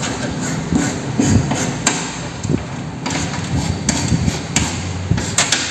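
Repeated scrubbing strokes and knocks as a stiff brush cleans built-up dirt off the parts of a motorcycle's front drum brake, over a low workshop hum.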